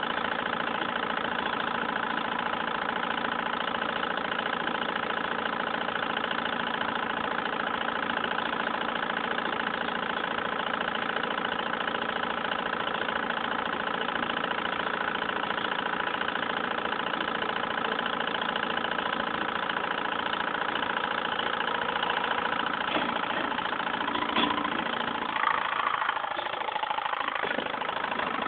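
Stirling engine running steadily with an even mechanical hum. Near the end the lower part of the hum drops away and a few light knocks are heard.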